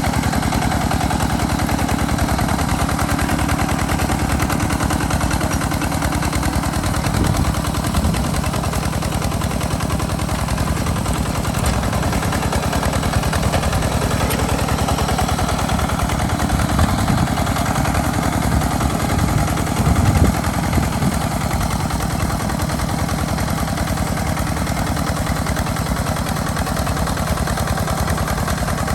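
Two-wheel walking tractor's single-cylinder diesel engine running steadily under plowing load, a rapid, even chugging that swells briefly a few times.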